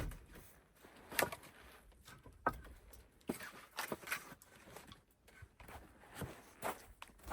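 Irregular wooden knocks and clacks, about one every half second to second: firewood being handled and loaded into a wood-burning stove.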